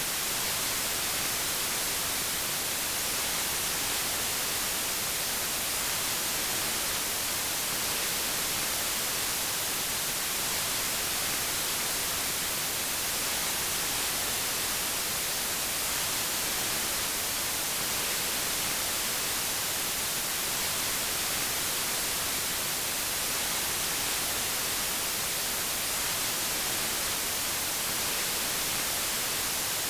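Steady white noise: an even hiss that does not change, brightest in the high frequencies.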